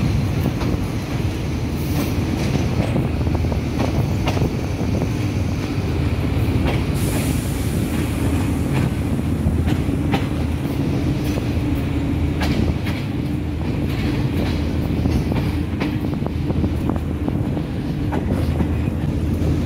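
Passenger train running over the rails, heard from on board: a steady low rumble with wheels clacking irregularly over rail joints and points, and a short high hiss about seven seconds in.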